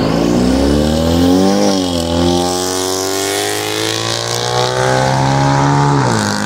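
A car's engine accelerating hard at full throttle. It revs up, drops in pitch at an upshift just under two seconds in, climbs steadily through the next gear, and shifts up again near the end.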